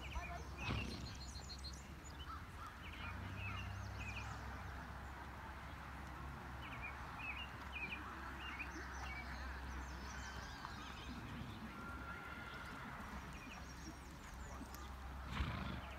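Outdoor ambience of birds chirping on and off over a steady low rumble, with two brief knocks, one about a second in and one near the end.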